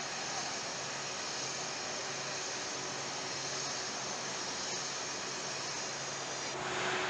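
Steady hissing machinery and ventilation noise of a car assembly plant, with a low hum under it; near the end it turns a little louder and a steady tone comes in.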